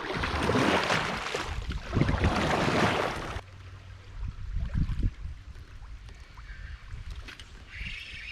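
Loud, even rushing noise of a kayak moving on river water, cutting off suddenly about three and a half seconds in. It is followed by quieter water sounds with a few low knocks.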